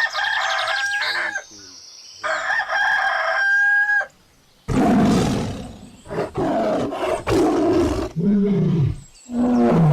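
A rooster crowing twice, each crow a long held call, followed by louder, rougher animal sounds from about five seconds in.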